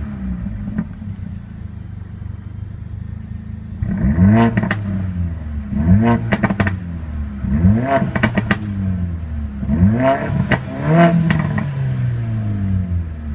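2014 Mercedes CLA45 AMG's turbocharged 2-litre inline-four idling, then blipped about five times, roughly every two seconds, each rev rising and falling quickly with short crackles from the exhaust after it, before settling back to idle near the end.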